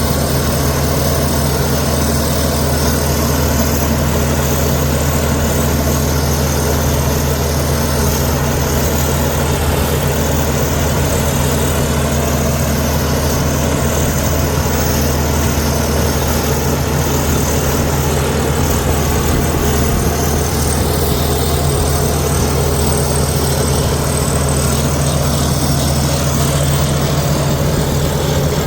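Heavy diesel engine of a Komatsu D61EX bulldozer running steadily at an even pitch, a continuous low engine drone.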